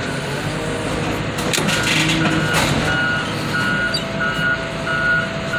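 Backup alarm on a heavy machine beeping steadily, about one and a half beeps a second, starting a couple of seconds in, over the machine's running engine. A few sharp knocks come just before the beeping starts.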